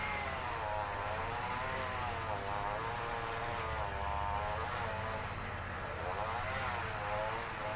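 A string trimmer (weed eater) engine running, its whine wavering up and down in pitch every second or two as the throttle is worked.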